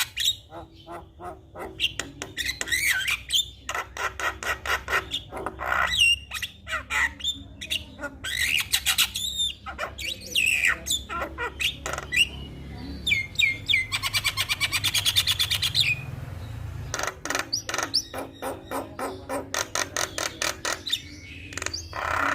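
Javan myna singing a long varied song of rapid clicking chatter, harsh squawks and short whistled glides, with a fast, even rattle about two thirds of the way in.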